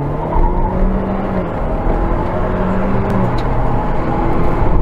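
Car engine pulling hard at highway speed, heard from inside the cabin over steady road and wind noise. The engine's pitch climbs and drops back a few times.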